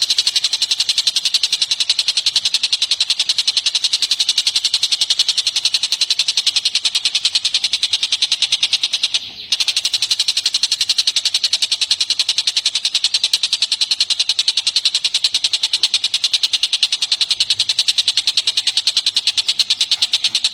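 A songbird's fast, even run of high chirps, several a second, kept up without let-up apart from a brief pause about nine seconds in: a recorded bird-song track of the kind played to train cage birds.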